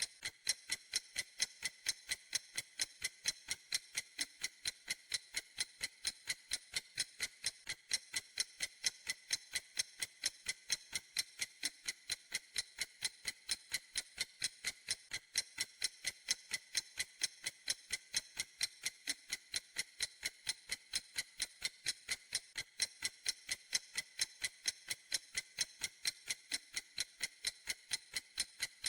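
Clock ticking steadily: even, sharp ticks at about two to three a second, thin and high with no low body to them.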